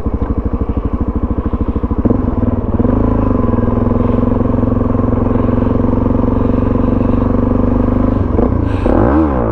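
Suzuki DRZ400SM's single-cylinder four-stroke engine while riding: a low pulsing chug for about the first two seconds, then running at a steady speed, with a few quick rises and falls in engine pitch near the end.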